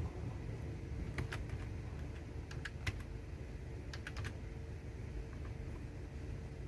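Computer keyboard being typed on in three short bursts of a few keystrokes each, with pauses between, then a few faint taps. A steady low rumble runs underneath.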